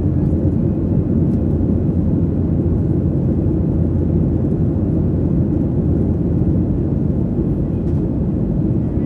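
Steady low rumble of cabin noise inside a Boeing 737-800 jet airliner, the engines and airflow running at an even level with no change.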